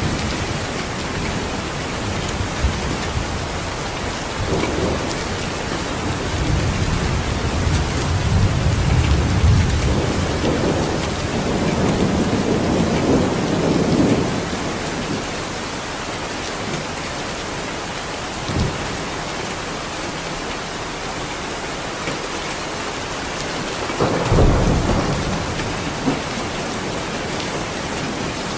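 Steady heavy rain with thunder. A long, rolling rumble swells from about six seconds in and lasts several seconds, and a shorter, sharper rumble breaks out near the end.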